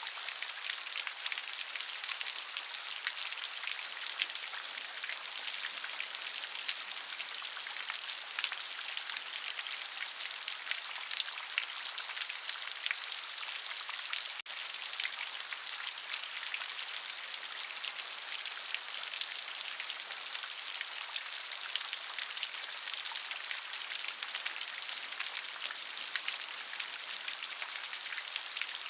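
Steady rain, a dense patter of countless drops hissing evenly throughout, with a split-second dropout about halfway through.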